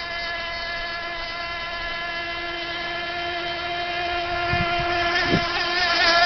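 Radio-controlled catamaran boat's motor running in a steady high whine across the water, holding one pitch and growing louder over the last couple of seconds as the boat comes closer.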